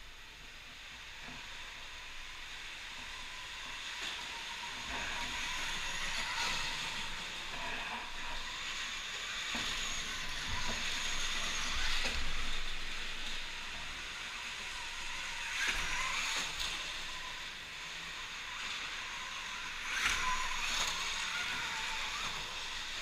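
Electric motocross bikes riding on an indoor dirt track: a hissing rush of tyres on loose dirt with a faint motor whine, swelling louder several times as the bikes pass or power on.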